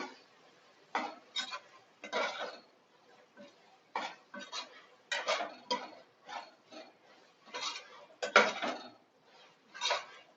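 A spoon scraping and knocking against a cooking pan in short, irregular strokes, a little over one a second, as a thick onion-tomato biryani masala is stirred and sautéed.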